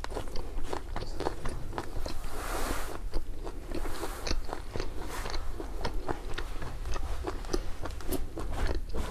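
Close-miked eating sounds: a person chewing and crunching food, with many short wet mouth clicks and a denser crunchy stretch about two seconds in.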